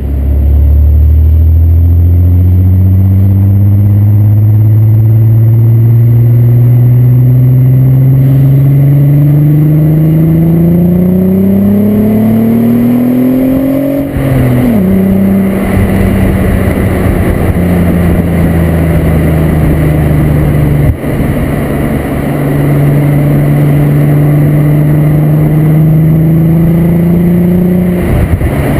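Corrado's 24-valve VR6 engine through a Techtonics Tuning exhaust, pulling under acceleration. The pitch climbs steadily for about fourteen seconds, drops sharply at a gear change, then runs nearly level, rising slowly, with a brief dip about halfway through the second half, and falls off again near the end.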